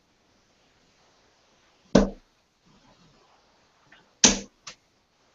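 Darts striking a dartboard: two sharp thuds about two seconds apart, the second followed quickly by a fainter hit, in a small room.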